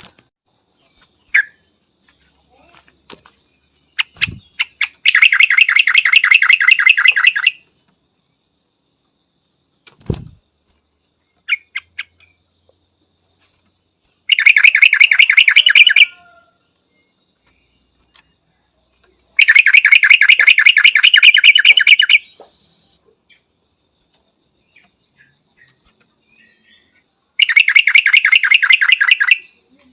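Yellow-vented bulbul calling in four loud bursts of rapid repeated notes, each lasting two to three seconds, with a few short single chirps and two brief low thumps in the gaps.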